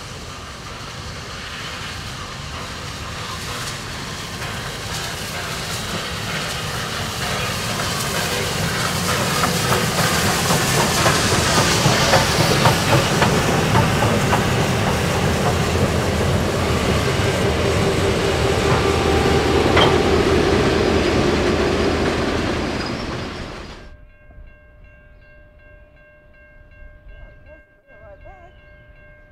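Steam locomotive R761 and the EMD diesel S313 behind it passing close by as the train pulls out, with the passenger cars rolling over the rails. The sound builds steadily to a peak and then cuts off abruptly near the end.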